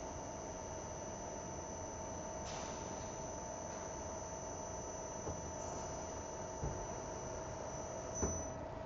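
Steady high electrical whine and hum of an idling CNC machine, with a few light knocks, the loudest near the end. The high whine stops just before the end.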